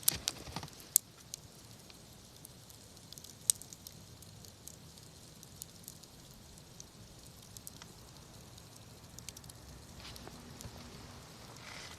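Wood campfire burning, crackling with sharp pops: a cluster near the start, another about a second in and a loud one about three and a half seconds in, over a steady low hiss.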